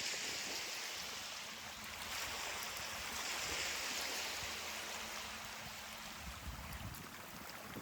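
Ocean surf washing up a beach: a loud hiss of breaking, foaming water that swells again about two seconds in, then slowly eases off.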